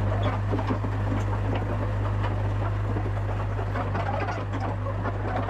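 Yanmar VIO50 mini excavator's diesel engine running steadily while the arm works the newly mounted hydraulic rock hammer through its range of motion, with scattered metallic clanks and rattles from the hammer and linkage.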